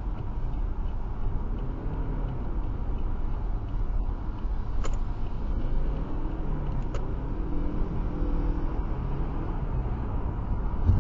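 Steady low rumble of a car driving at motorway speed, with two brief clicks about five and seven seconds in.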